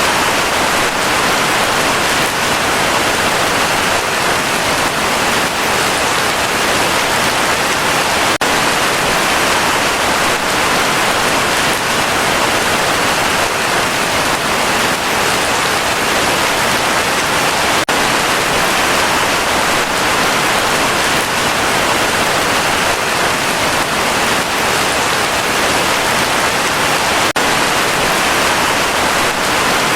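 Heavy rain falling steadily, a loud, dense, even hiss of drops.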